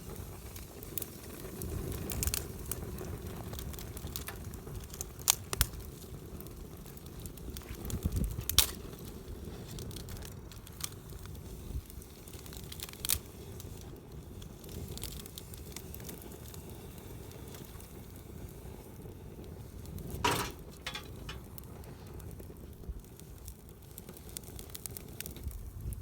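Wood campfire burning, with scattered sharp crackles and pops over a low steady rustle, and one louder crack about twenty seconds in.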